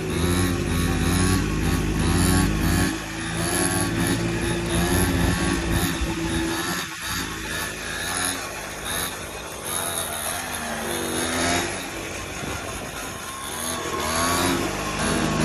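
X3 pocket bike's small engine running and being revved as it is ridden, its pitch rising and falling.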